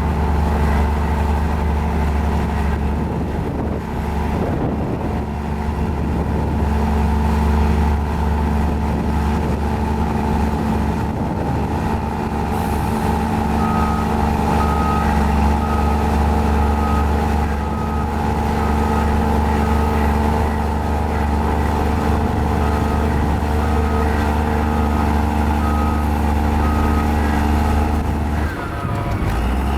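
Mini Komatsu bulldozer's diesel engine running steadily under load, with a reversing alarm beeping in two stretches from about halfway through. The engine note dips briefly near the end.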